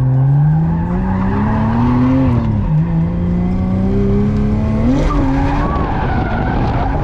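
Drift car engine revving hard under load, its pitch climbing steadily, dropping sharply about two and a half seconds in, then climbing again and holding, with tires skidding.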